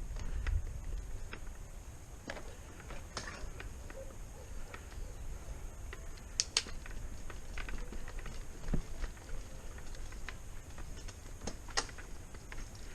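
Mountain bike rolling over a rough forest trail: irregular clicks, knocks and rattles from the bike and the ground, a couple of them sharper, over a steady low rumble.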